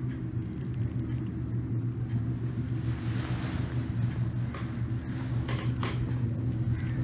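Steady low rumble with a constant hum, a brief rush of hiss about three seconds in, and a few faint clicks near the end.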